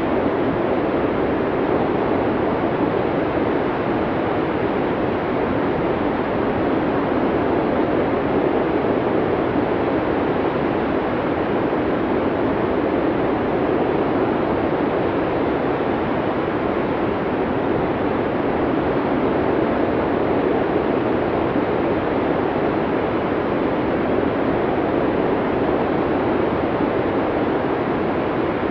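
Strong wind blowing steadily in a heavy snowstorm: an even rushing noise with no gusts or breaks.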